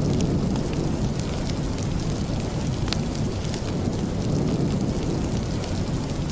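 Steady rain with a deep, even rumble, mixed with the scattered crackle of a wood fire; one sharper crackle stands out about three seconds in.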